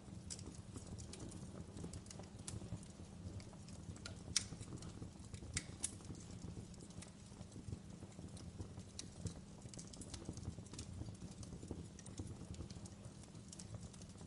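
Wood fire burning in a fireplace: a low, steady rumble of flames with irregular crackles and pops from the firewood, one sharper pop a little under halfway through.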